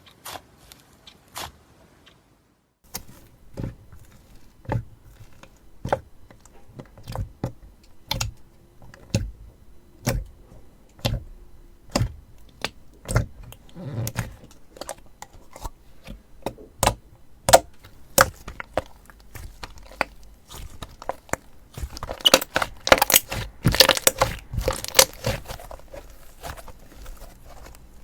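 Slime being worked by hand, making sharp sticky clicks and pops about once or twice a second. Near the end they turn into a dense run of crackling pops.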